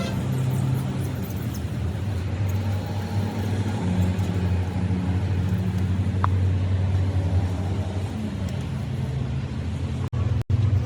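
An engine running steadily with a low hum, its sound briefly cutting out twice near the end.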